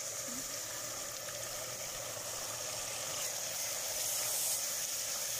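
Steady sizzling of onion-tomato masala frying in hot oil in a pot as ground spices are stirred in.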